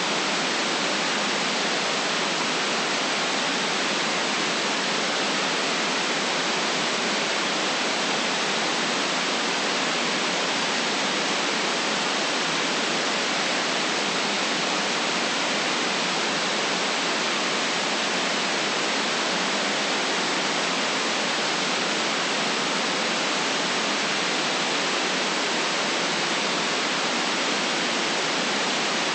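Steady, even hiss of generated white noise, with no change in level or tone.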